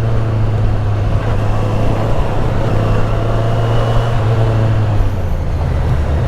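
Kawasaki superbike engine running steadily at cruising speed, with wind rushing past. The engine note drops lower about five seconds in as the revs come down.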